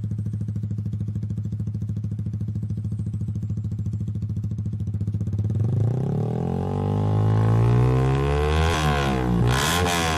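Yamaha R15 V3's 155 cc single-cylinder engine idling steadily through its exhaust, then revved from about six seconds in, the pitch climbing and falling in repeated blips.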